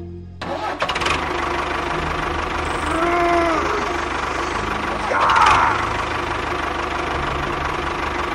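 Tractor engine running steadily with a knocking diesel-like beat, starting about half a second in. A short rising-and-falling pitched sound comes near 3 seconds, and a louder brief falling one a little after 5 seconds.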